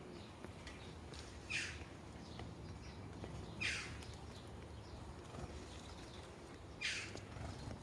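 Sparrows at a bird feeder giving three single short chirps, spaced two to three seconds apart, over a steady low background rumble.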